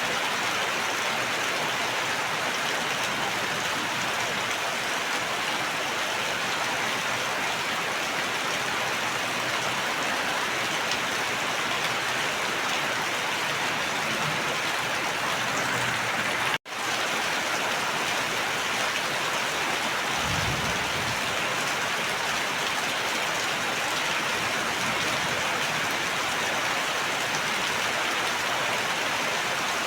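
Steady, even rain falling. It cuts to silence for a split second a little past the middle, and there is a short low rumble a few seconds later.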